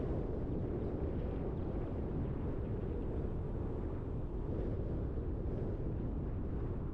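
Steady low rumble of a car driving along a road: road and wind noise with no changes in pace.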